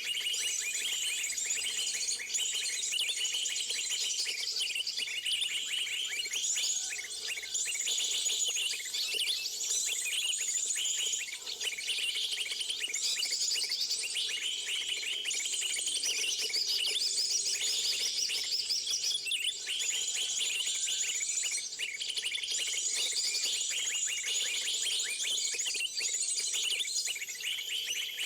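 A dense, continuous chorus of many small birds chirping and trilling, high-pitched and busy, as used for luring birds in for trapping.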